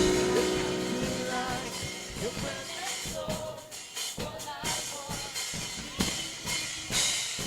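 Live worship music playing softly: a held chord fades over the first second, then light drum hits continue with voices singing faintly in the background.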